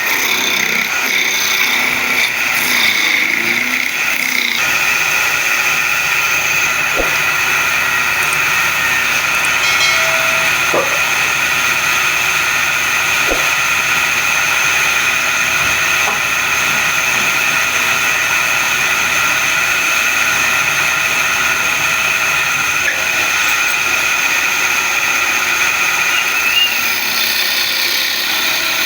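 Wood lathe running with a steady high whine while turning a wooden bed leg.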